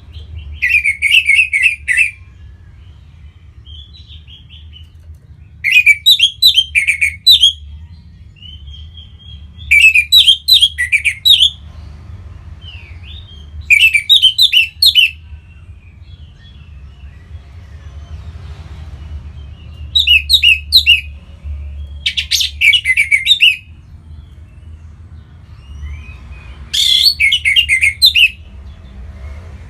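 Orange-headed thrush singing: loud phrases of rapid, varied high notes, each lasting a second or two and coming every few seconds, with softer notes between them, over a steady low hum.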